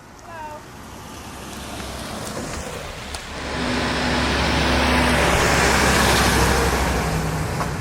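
A car driving past close by: engine hum and tyre noise build over a few seconds, loudest about five to six seconds in, then start to fade.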